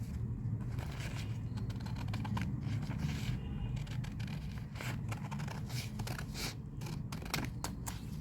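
Scissors snipping through a sheet of paper in a series of short, irregular cuts, cutting the leftover strip off a folded A4 sheet.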